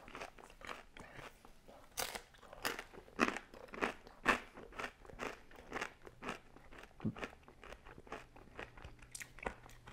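Close-miked chewing of crispy thin-crust pizza, a quick irregular run of crunches several times a second, the loudest a few seconds in.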